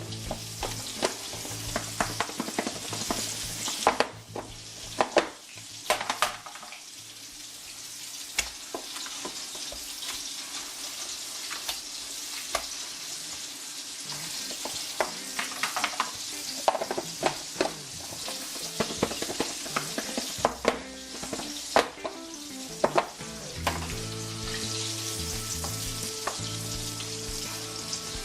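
Breaded pork tenderloin chops deep-frying in hot oil: a steady sizzle with scattered sharp crackles and pops. A low steady hum comes in about four-fifths of the way through.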